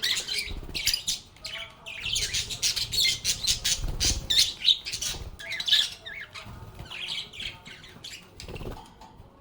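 A group of lovebirds chattering: rapid, shrill chirps and squawks overlapping, busiest in the middle and thinning out near the end. There are a couple of soft low thumps among them.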